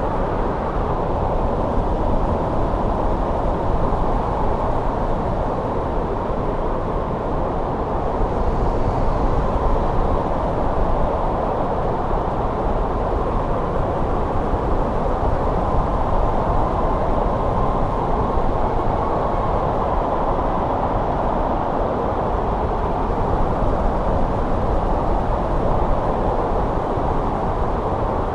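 Winter wind blowing steadily, a low, even rushing noise.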